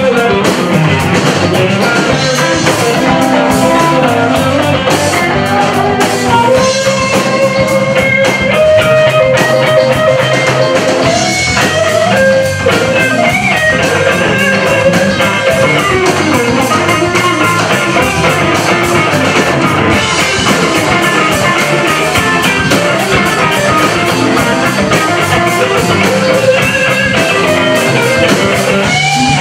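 Live blues-rock band playing an instrumental stretch, with lead guitar over bass and a drum kit.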